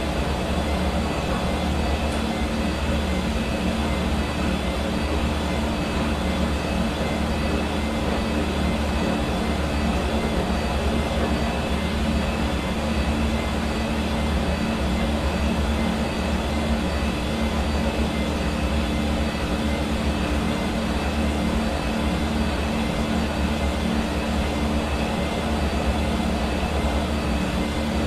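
Hair dryer running steadily, a constant rush of blown air with a low motor hum and faint steady whine.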